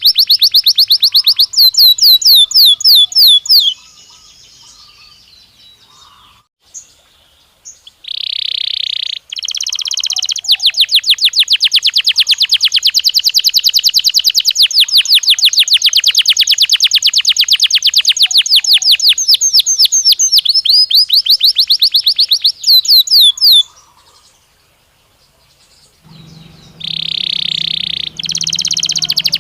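Belgian canary singing: long, rapid trills of quickly repeated notes, with a few short buzzy notes and two brief pauses.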